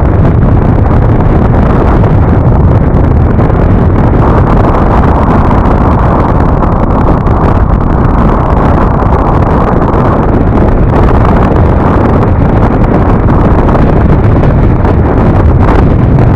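Loud, steady wind rush on the microphone of a moving Yamaha NMAX scooter, with the ride's road noise beneath it.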